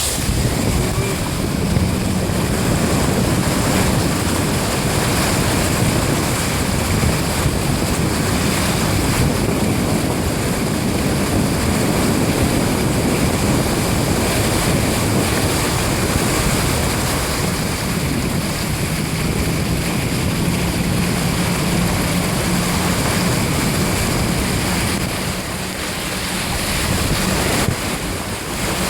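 A vehicle drives through shallow floodwater: a steady, loud rush of water churned and sprayed by the tyres, with a faint engine hum under it at times.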